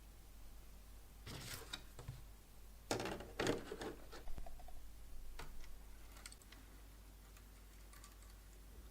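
A quiet room with a short run of light clicks, taps and rustling, like small objects being handled, starting about a second in and dying away after a few seconds.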